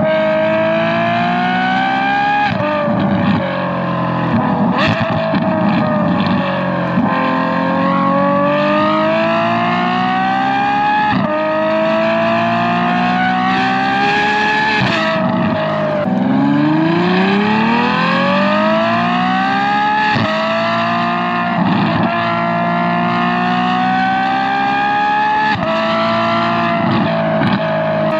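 Ferrari F12 Berlinetta's V12 on a free-flow X-pipe exhaust with a valved rear section, pulling hard: the high-pitched engine note climbs in long runs, broken by sudden drops at each gearchange, about seven times. Heard close up from a camera mounted on the bumper.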